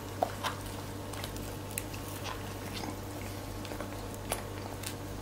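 A person biting into and chewing a mouthful of cheeseburger: scattered soft clicks and smacks of the mouth over a steady low hum.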